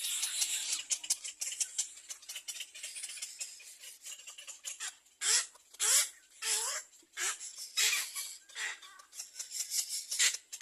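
Nestling birds begging at feeding time: fast high chittering, then from about halfway a string of loud, harsh squawks, each falling in pitch and repeated about every two thirds of a second.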